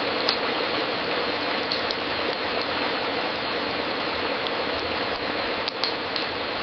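Wood fire crackling in a fireplace: a steady hiss of small crackles with a few sharper pops scattered through, the loudest pair near the end.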